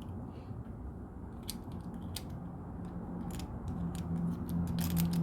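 Small plastic clicks and taps of LEGO minifigure pieces being handled and fitted into a plastic capsule, several scattered clicks with a quick cluster near the end. A low steady hum comes in about two-thirds of the way through.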